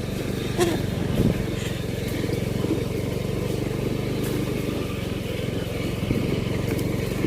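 Motorcycle engine running at a steady speed, with a couple of light knocks in the first second or so.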